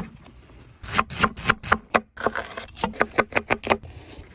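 Kitchen knife chopping vegetables on a cutting board in quick strokes, about five a second, in two runs with a brief pause between them.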